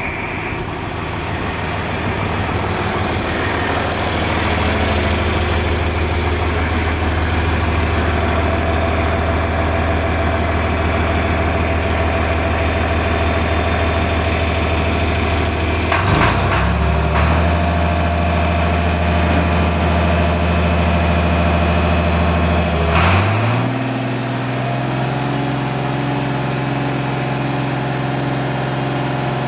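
Tractor engine running steadily, its speed stepped up twice, about halfway through and again near three quarters through, each change marked by a short clunk.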